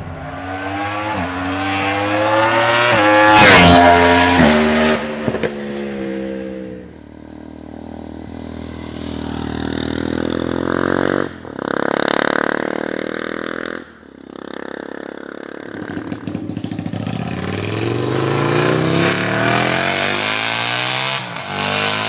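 Sport motorcycle engines revved through loud aftermarket exhausts: several free revs, the pitch climbing and falling back, the highest about three to four seconds in, with abrupt breaks a little past the middle.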